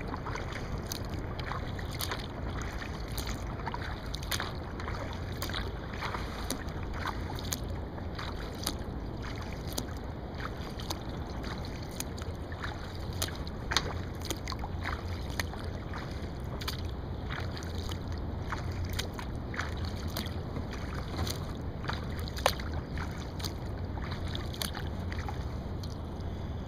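Paddling a mahogany wood kayak: water splashing and dripping off the paddle blades and washing along the hull, heard as many small irregular ticks and trickles over a steady rush. Two sharper clicks stand out, about halfway and near the end.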